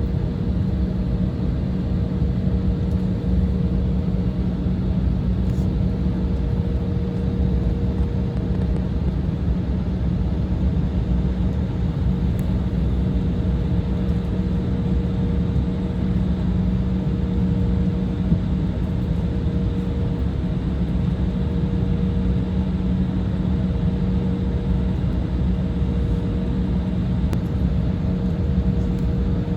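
Embraer 175 cabin noise: its twin jet engines and airflow make a steady drone with a constant low hum and a higher hum above it.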